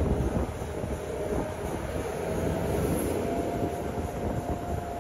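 Passenger train running, heard from on board: a steady low rumble of the wheels on the rails, with a thin hum that slowly rises in pitch.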